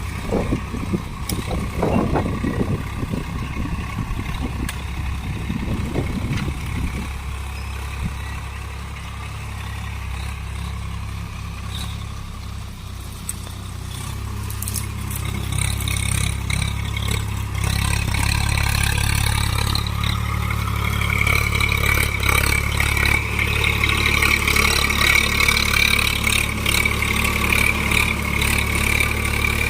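Tractor diesel engine running, with uneven clattering knocks in the first several seconds. From about halfway it picks up and grows louder.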